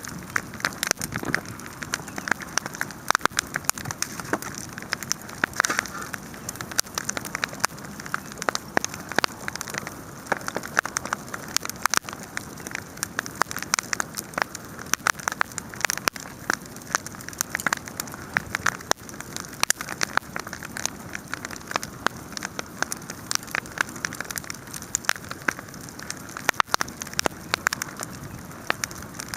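Wood bonfire burning, with dense, irregular crackling and popping over a steady hiss.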